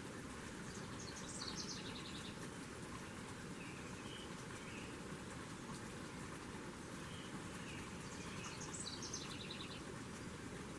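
A songbird singing twice, each song a short run of high notes stepping down into a fast trill, with softer chirps between the songs, over a steady background hiss.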